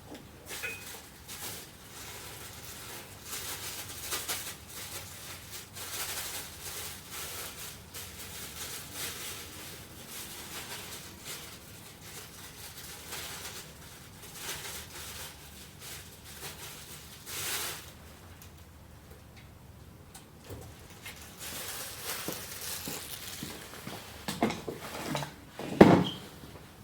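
Kitchen food-preparation handling sounds: irregular rustling, crinkling and light taps, with a louder knock near the end.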